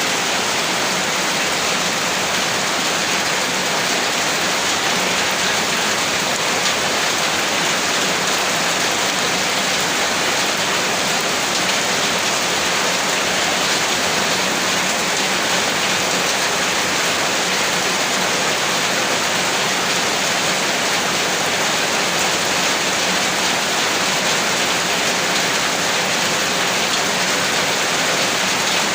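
Heavy rain falling steadily, an even hiss of many drops with no thunder or lulls.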